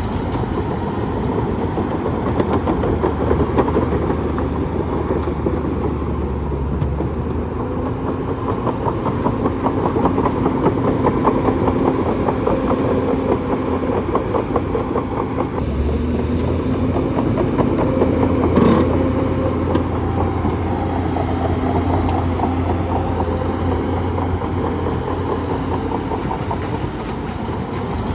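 Bulldozer's diesel engine running steadily, with a rapid rattling texture and one sharp knock about two-thirds of the way through.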